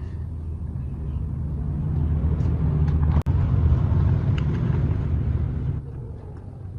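Small two-stroke minibike engine running, a steady low rumble that slowly builds and falls away somewhat near the end.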